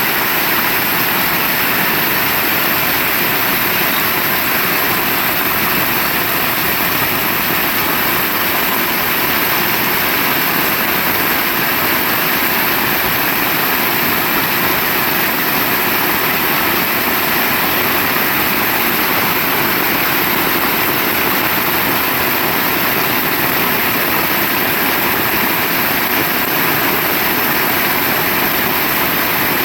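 Heavy rain falling steadily: a loud, dense, even hiss that does not let up.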